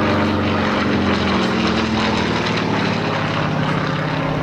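Propeller airplane's engine flying past loud, its pitch dropping as it goes by.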